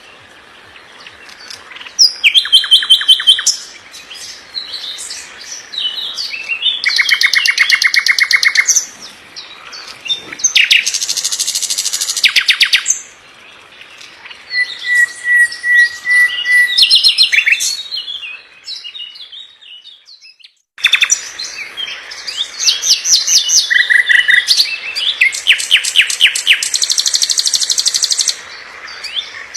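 Songbird song from a bird-tutoring (masteran) recording: fast, varied phrases of rapid trills and high chirps, separated by short pauses. One phrase holds a steady whistle, and the song drops out briefly about twenty seconds in before resuming.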